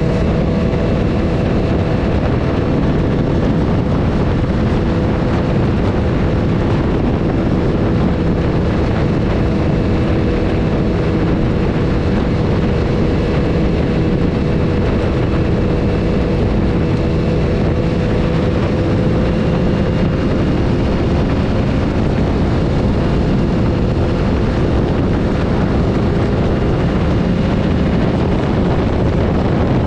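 BMW S1000RR's inline-four engine running at a nearly constant speed, its note holding steady, under heavy wind rush on the camera microphone.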